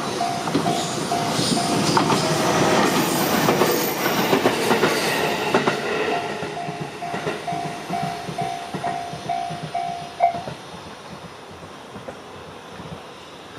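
A Japanese railway level-crossing alarm rings its repeated bell tone about twice a second while a JR Minobu Line train runs over the crossing, its wheels clattering over the rail joints. The train is loudest in the first half, then fades, and the alarm stops about ten and a half seconds in.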